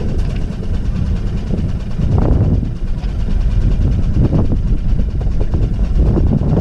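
Small boat's outboard motor running steadily at low revs, with a few brief louder surges.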